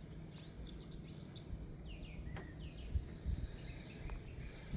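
Faint, short bird chirps in two small groups over a low, steady background rumble.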